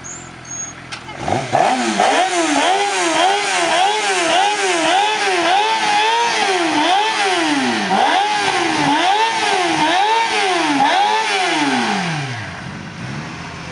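An engine revved over and over in quick, even throttle blips, each rising and falling in pitch, about one and a half a second. The revs then drop away about twelve seconds in.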